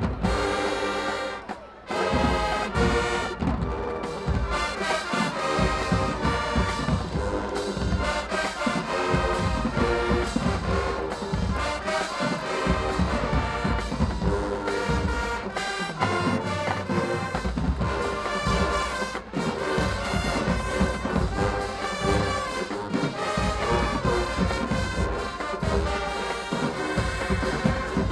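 High school marching band playing with the brass section over a heavy drum beat, with a short break just before the two-second mark.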